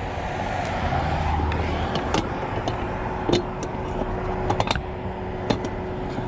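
A motor vehicle's engine running steadily, with a handful of sharp clicks and knocks spread through the middle and latter part.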